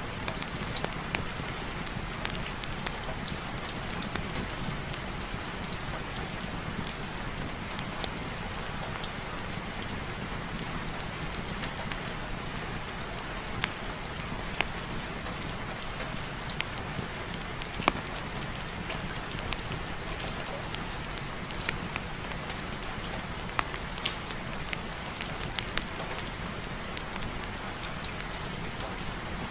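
Steady rain falling, with scattered sharp ticks and pops from individual drops.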